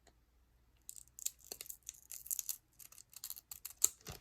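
Foil Yu-Gi-Oh! booster pack being torn open and crinkled: a quick string of short, sharp crackles starting about a second in.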